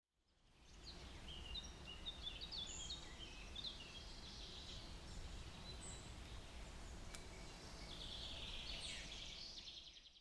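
Birds calling in outdoor ambience: many short chirps and calls, ending in a quick run of calls near the end, over a steady low rumble. It fades in at the start.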